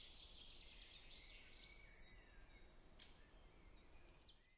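Faint background birdsong: many small birds chirping and twittering, busy for about two seconds and then thinning to scattered chirps.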